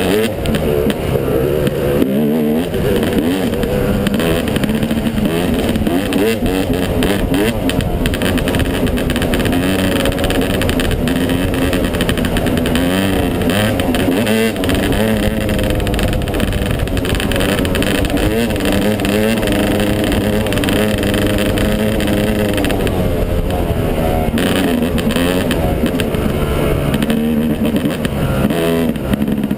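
Yamaha 250 dirt bike engine running hard while being ridden, its pitch rising and falling with the throttle.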